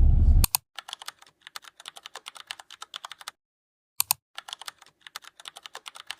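Typing on a keyboard: quick key clicks several times a second, broken once by a short silent gap. Background music cuts off just before the typing starts.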